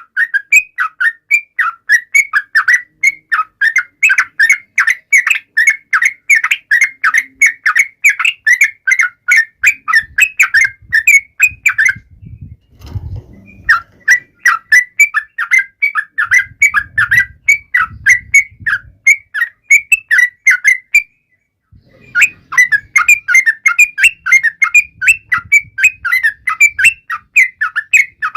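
Yellow-vented bulbul (trucukan) singing a fast, chattering run of short notes, about four a second, breaking off twice for a second or two.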